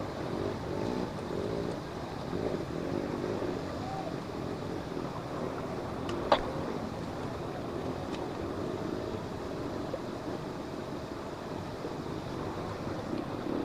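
Trail motorcycle engines running, their pitch wavering, over a steady outdoor wash of noise, with one sharp click about six seconds in.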